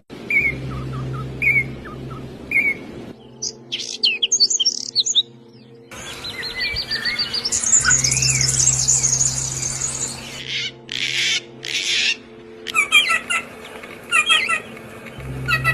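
Small songbirds chirping and calling in a string of short spliced clips. There are single chirps about once a second, then quick high chirps, then a dense high chattering trill, a few harsh calls, and rapid chirping. The background changes abruptly at each cut, with a steady low hum under some clips.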